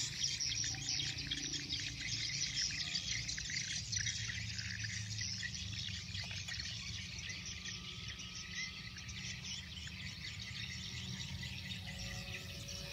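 Steady, dense chorus of insects chirring, with a low rumble underneath.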